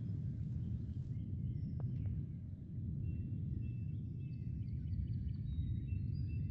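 Birds chirping in short, high notes over a steady low rumble of background noise; no piano is playing.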